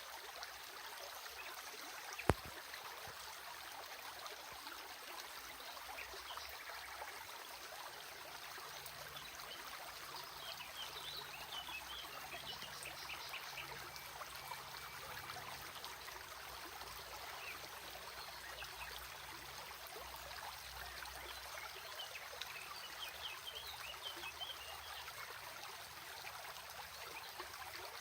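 Small stream trickling steadily over stones. There is a single sharp click about two seconds in, and clusters of short high chirps come and go around the middle and near the end.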